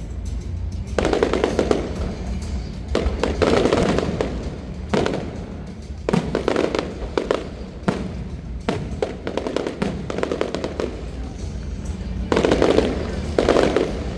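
Aerial fireworks shells bursting one after another, each a sudden bang with a short rumbling tail, about a dozen at irregular intervals and some in quick pairs.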